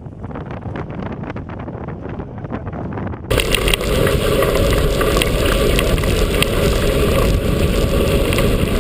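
Wind rushing over the camera microphone and a mountain bike rattling over rough trail on a fast downhill run. About three seconds in the sound jumps abruptly to a louder, fuller rush of wind noise.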